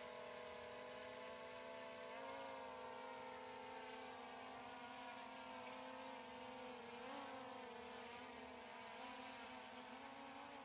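Faint steady hum of an SJRC F22S 4K Pro quadcopter's motors and propellers in flight, its pitch stepping up about two seconds in and wavering around seven seconds as the throttle changes.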